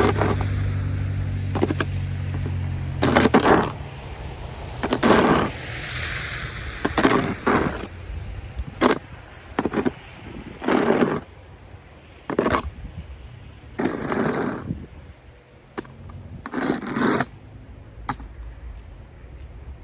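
Snow shovel scraping over snow and pavement in about a dozen separate strokes, each about half a second long, one to two seconds apart. A passing vehicle's engine hum fades out in the first couple of seconds.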